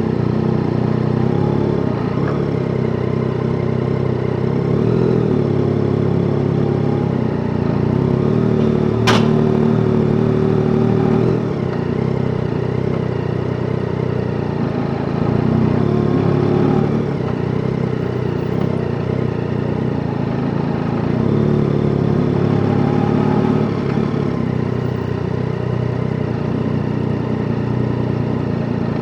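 Yamaha Tracer 9 GT's 890 cc inline three-cylinder engine running while riding, its pitch easing up and down with the throttle through the gears. A single sharp click about nine seconds in.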